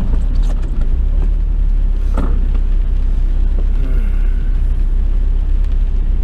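Honda S2000 with an AP2 engine, heard from inside the cabin while driving: a steady low drone of engine and road noise, with a few light clicks and knocks.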